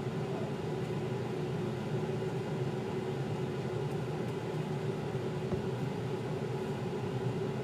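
A steady machine hum with an even hiss underneath, holding one low drone throughout.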